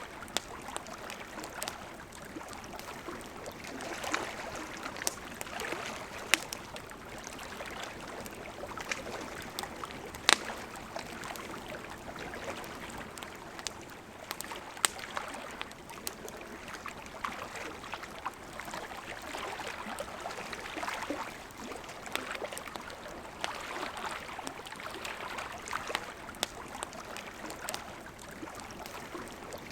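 River water flowing steadily, with a campfire crackling and giving sharp pops every few seconds, the loudest about ten seconds in.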